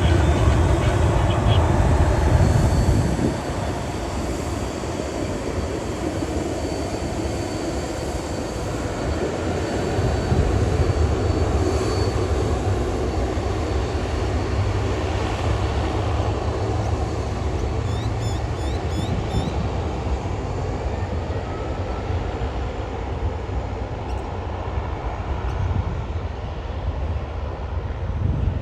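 Jet airliner engines running in a steady, deep rumble, loudest in the first three seconds and then a little quieter, with a faint high whine over it for a while.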